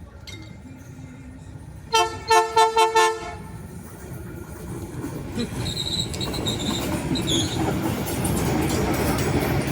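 VLT light-rail train sounding a quick run of about five short horn blasts about two seconds in. Its running noise then builds steadily as it approaches the level crossing, with a brief high wheel squeal partway through.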